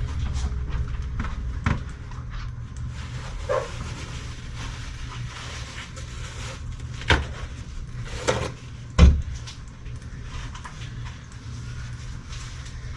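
Scattered knocks and clunks of metal parts and tools being handled, the loudest about nine seconds in, over a steady low hum.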